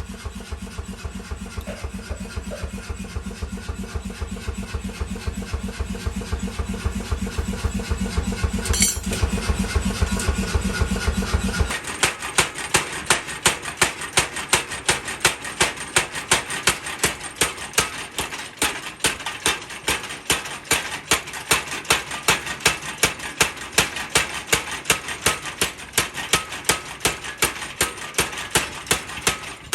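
A machine runs with a rapid low pulsing that cuts off about twelve seconds in. Steady, evenly spaced sharp blows on metal follow, about two to three a second, typical of forging strikes.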